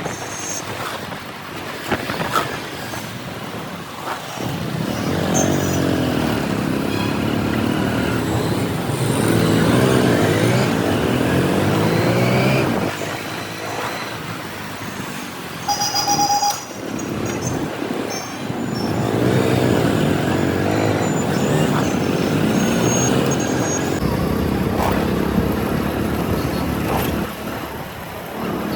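Motorcycle engine pulling away and accelerating up through the gears twice, its pitch climbing in repeated rising sweeps, over road and traffic noise. A short horn beep sounds about halfway through.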